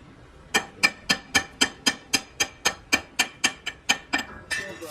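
About fifteen sharp metallic clicks with a ringing tone, evenly spaced at about four a second, starting about half a second in and stopping near the end.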